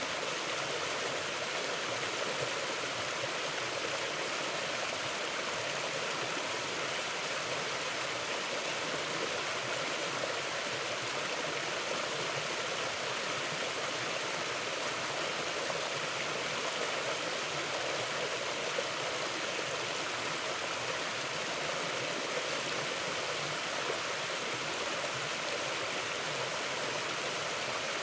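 A forest creek flowing: a steady, even rush of running water with no breaks.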